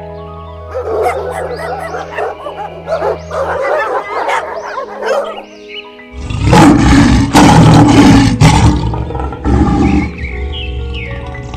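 Background music for the first six seconds, then a big cat roaring loudly in several heavy calls from about six seconds in, over the music.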